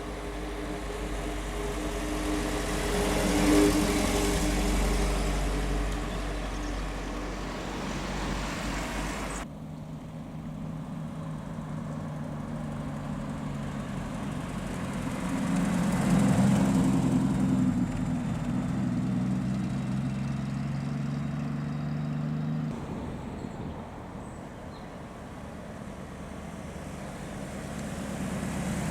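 Classic car engines driving past one after another, each swelling in level as it comes close and easing off as it goes. Twice the engine sound changes abruptly, partway through and again later on.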